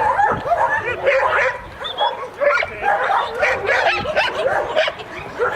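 A dog whining and yipping over and over in quick short calls that rise and fall in pitch.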